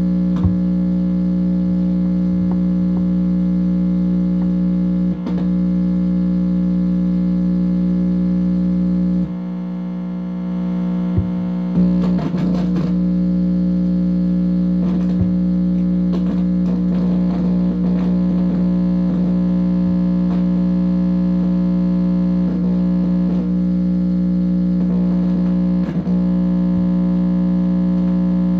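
Loud, steady electrical buzz played through an amplifier, distorted and humming on a few fixed pitches. It thins out briefly about nine seconds in, then comes back with a burst of crackles and occasional clicks.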